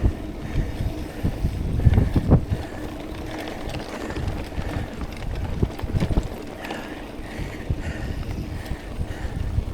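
Mountain bike riding over a dirt trail: rolling tyre noise and knocks from the bike over bumps, with wind buffeting the action camera's microphone.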